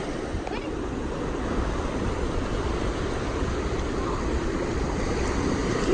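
Steady wind rumbling on the microphone over the continuous wash of surf.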